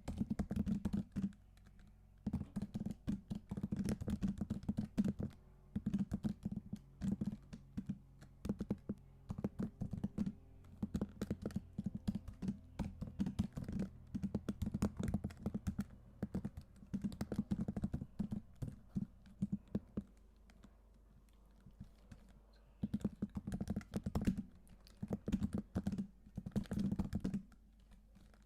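Typing on a computer keyboard in bursts of rapid keystrokes with a deep, low-pitched clack. There is a brief pause about two seconds in and a lull near two-thirds of the way through.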